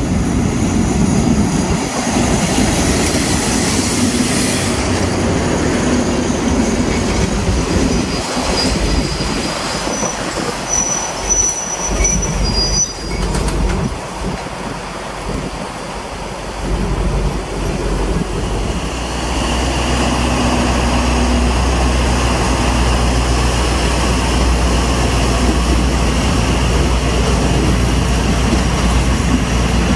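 Diesel-electric locomotive hauling a passenger train: rumbling as it rolls in, thin high brake or wheel squeals about ten to thirteen seconds in, then from about nineteen seconds a steady, loud low engine drone under load as the train pulls away, with the coach wheels rolling past.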